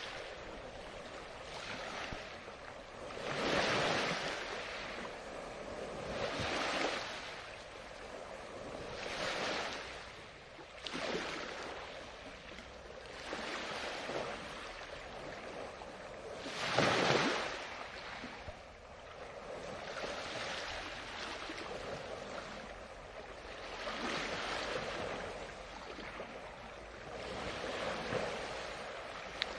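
Ocean waves breaking and washing on the shore, one surge after another every two to three seconds, the biggest about four seconds in and near the middle.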